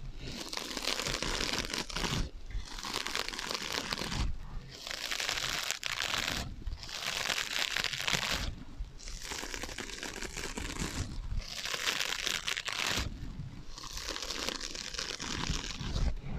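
Scratching on sponges with an added echo effect, a dry crinkling scratch that comes in stretches of one to two seconds with brief pauses between them.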